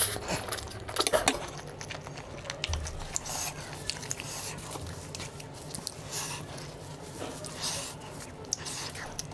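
Close-miked mouth sounds of a person chewing a mouthful of noodles: wet smacks and clicks, loudest in the first second or so, then softer, scattered chewing.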